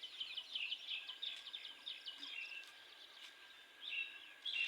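Several small birds chirping and twittering in a quick run of short, high chirps, thickest in the first couple of seconds, with a few louder calls near the end.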